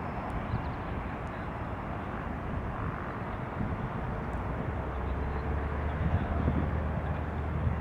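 Jet engines of a Boeing 787-8 Dreamliner on approach to land: a steady rushing noise that grows a little louder, with a low hum joining about five seconds in.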